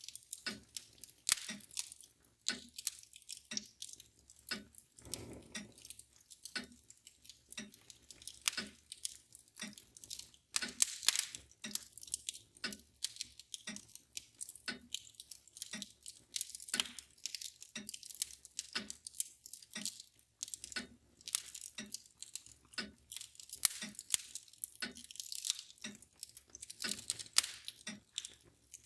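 Wood fire crackling with irregular sharp pops and snaps, over the steady, evenly spaced ticking of a mantel clock.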